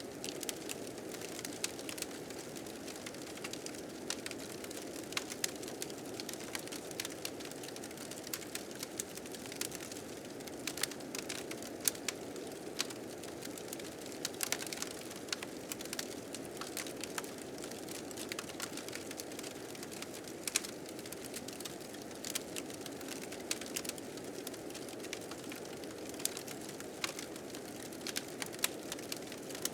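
Fire crackling, with frequent irregular sharp pops, over a steady low rush of blizzard wind.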